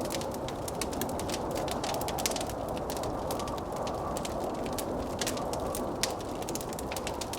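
Wood fire crackling and popping in a fireplace, with many quick irregular snaps, over a steady rushing noise of blizzard wind.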